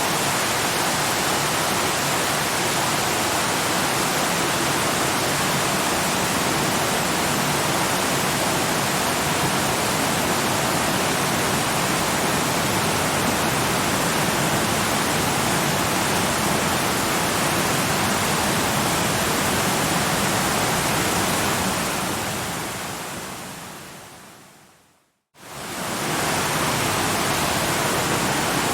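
Waterfall rushing in a steady, even roar of water. About three-quarters through it fades out to a moment of silence and then swells quickly back, the seam where the recording loops.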